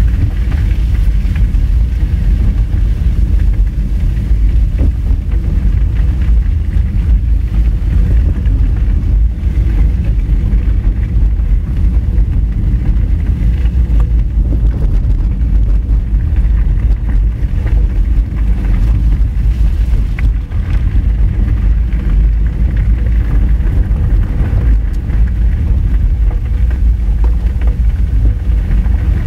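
Honda Fit driving on a rough gravel road: a steady low rumble of tyres and suspension over loose stones, with a few faint clicks.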